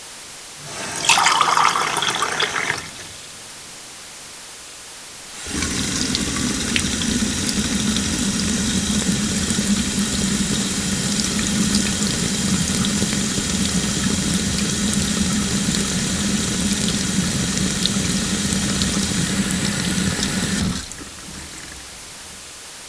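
Water from a kitchen tap: a short burst of about two seconds, then after a pause the tap running steadily into a sink for about fifteen seconds before it is shut off.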